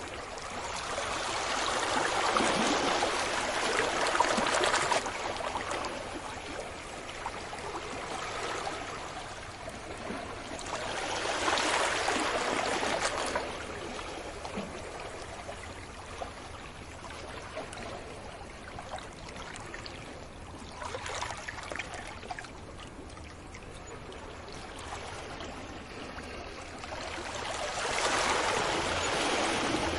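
Sea waves breaking on a beach and washing back, the rush swelling and fading in slow surges. Three larger waves break: one just after the start, one about 12 seconds in, and one near the end, with a smaller one about 21 seconds in.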